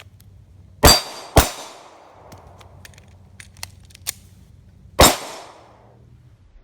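Three pistol shots from a Glock 42 .380: two about half a second apart near the start, and a third about four seconds later. Each has a trailing echo.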